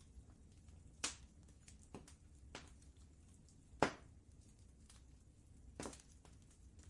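Wood fire crackling: a few sharp pops and smaller ticks at irregular intervals, the loudest about four seconds in, over a low steady rumble.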